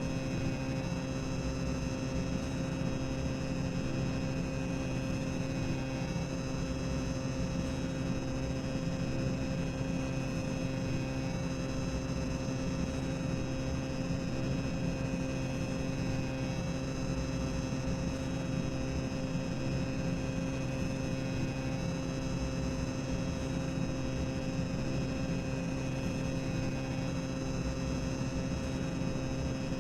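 Boiler-room ambience track from a theme-park ride queue: a steady mechanical drone of boilers and machinery, with a low hum and two steady tones over a faint hiss.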